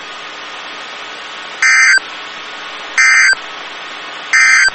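Three short warbling data bursts, about a second and a half apart, over steady radio hiss: the Emergency Alert System end-of-message (SAME EOM) code closing a NOAA Weather Radio warning.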